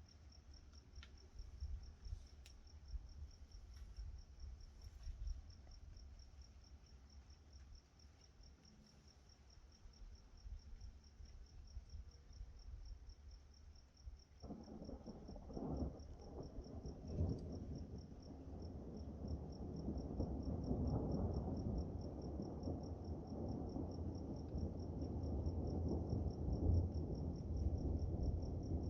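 Crickets trilling steadily in a high, fast-pulsing tone. About halfway through, rolling thunder breaks in with a low rumble that keeps building.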